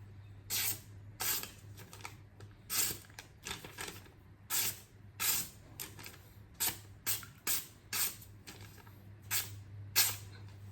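Freshly sharpened kitchen knife making repeated slicing cuts: over a dozen short, hissing strokes at an uneven pace.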